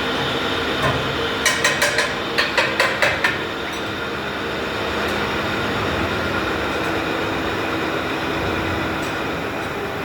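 Steady machine-shop machinery noise, with a quick run of about eight sharp metallic taps over some two seconds, starting about a second and a half in.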